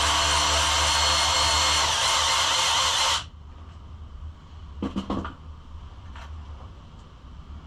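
Handheld electric power tool running steadily at a constant speed, then cutting off suddenly about three seconds in.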